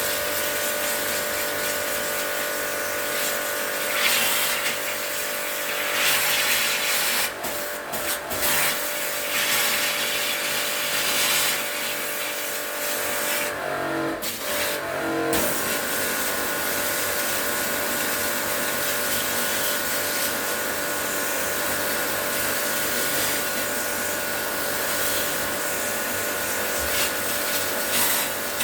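A small electric motor running steadily with a constant hum and hiss, briefly faltering twice near the middle.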